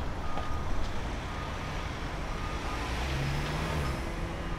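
City traffic rumble with a truck's reversing alarm beeping about once a second, and an engine note swelling briefly near the end.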